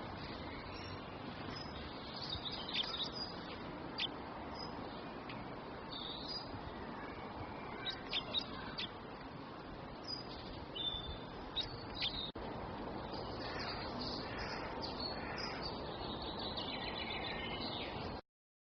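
Wild birds chirping and calling in short, scattered notes over a steady background hiss of outdoor ambience; the sound cuts off abruptly near the end.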